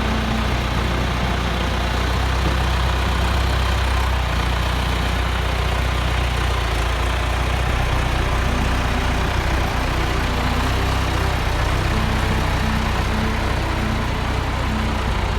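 An engine running steadily at a constant low pitch.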